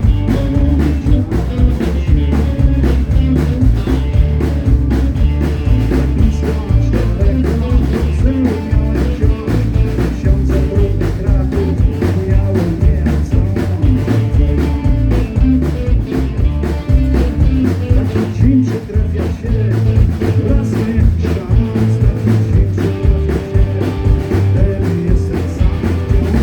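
Rock band playing live at a steady beat, with drum kit, bass and guitar.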